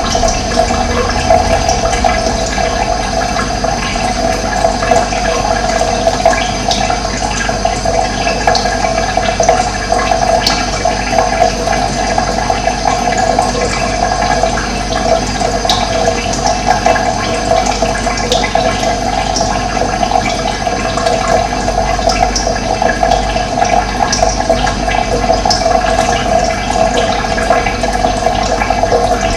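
Running water: a steady, loud, unbroken rush of flowing water.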